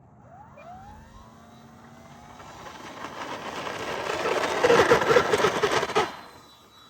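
Whine of the E-flite EC-1500's twin electric motors and five-blade counter-rotating propellers, growing louder as the plane comes close, loudest near the end and then cutting off abruptly.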